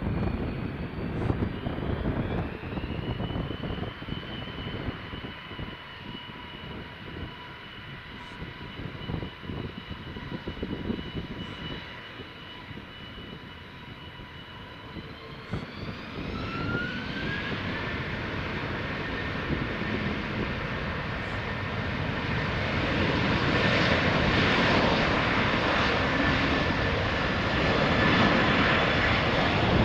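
Jet airliner engines. In the first half a Boeing 787-9's engines rumble with a faint steady whine; about halfway through an Airbus A330-200's engines spool up with a rising whine and grow steadily louder as it starts its takeoff roll.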